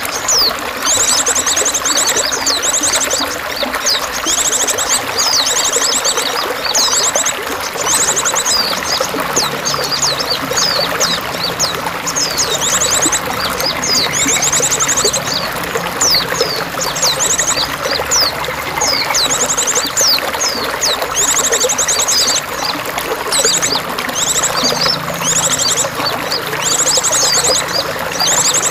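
Steady running, trickling water with songbirds calling over it: repeated high, fast trills of about a second each and many quick downward-sweeping chirps.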